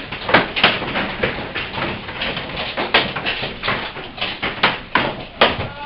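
Quarter-sized hailstones pelting down in a dense, irregular clatter of sharp hits over a steady hiss of falling ice and rain.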